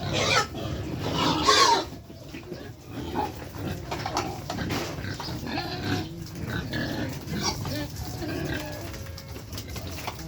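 Pigs on a pig farm calling: two loud cries in the first two seconds, then a run of quieter, broken grunts and calls.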